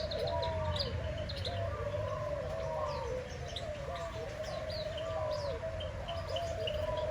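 Aviary bird chorus: a steady low cooing of doves runs underneath, with small birds giving quick high chirps over it.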